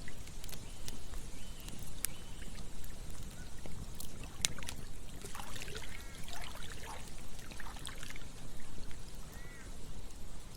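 Campfire crackling with scattered sharp pops over a steady rush of flowing river water. A cluster of short chirping animal calls comes about halfway through.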